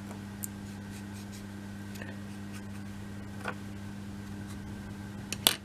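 Faint scratching and light ticks of small laser-cut wooden model-kit pieces being handled and glued, over a steady electrical hum. A sharp knock comes near the end.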